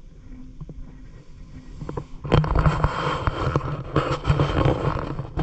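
Water splashing and sloshing in a shallow ditch as a fishing net is worked through it. The sound starts loud and rough about two seconds in, with many quick irregular splashes.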